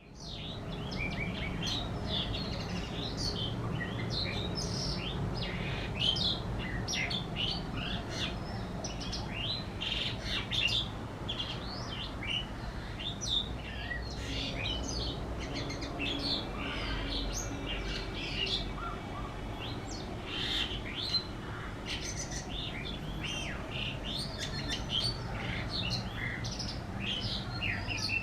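Small birds chirping and twittering in a busy chorus of short, high calls, over a steady low hum.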